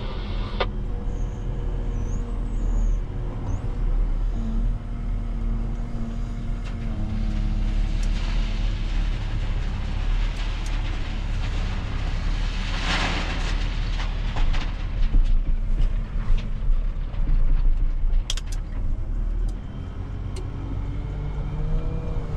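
Heavy diesel machinery engine running steadily under load while gravel is loaded into a truck. About 13 seconds in there is a loud rushing noise lasting roughly a second, and a few sharp clicks follow a few seconds later.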